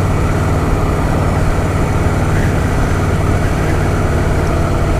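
Harley-Davidson Softail Fat Boy's V-twin engine running steadily under way, a loud, even low rumble.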